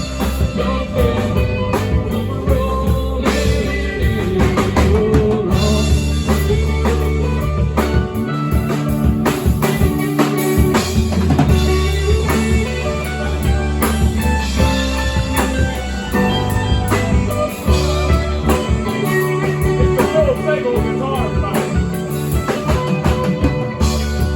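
Rock band playing an instrumental passage: guitar lines over a steady drum kit beat and a low bass line.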